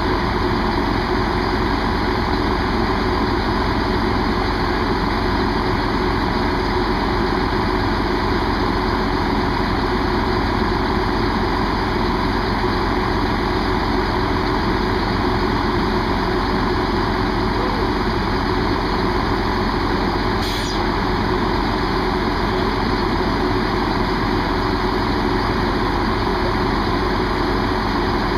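Diesel train engine idling steadily at the station, a constant low drone with no change in pitch or level, and a single short click about two-thirds of the way through.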